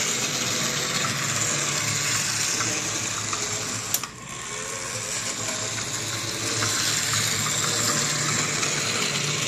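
HO-scale Burlington model locomotive running on track: a steady electric motor whir with wheel hiss. About four seconds in, a click and a short drop in the sound, which then builds back up as the engines are run forward and reverse.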